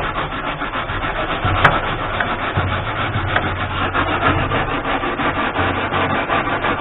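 Rapid back-and-forth scraping strokes on rusted sheet steel: rust being scrubbed off the underside of a car roof panel, and it is barely coming off.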